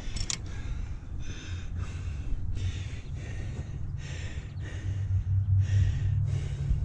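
A man breathing hard in short, noisy breaths, roughly one a second, winded from lifting a tractor part of over 150 pounds by hand. A steady low hum runs underneath.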